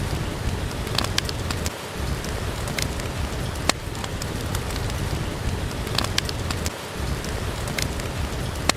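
Steady rain falling, an even hiss with a low rumble underneath, with scattered sharp pops and crackles from a wood fire in a fireplace.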